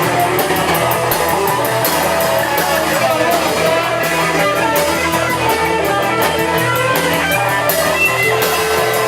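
Live rock band playing: electric guitars and a drum kit with steady cymbal hits, loud and continuous.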